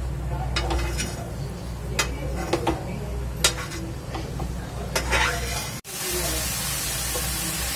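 Grated pumpkin frying in ghee in a nonstick pan, stirred and scraped with a silicone spatula: a light sizzle with scattered scrapes and taps of the spatula. About six seconds in the sound breaks off abruptly and comes back as a steadier, louder sizzle.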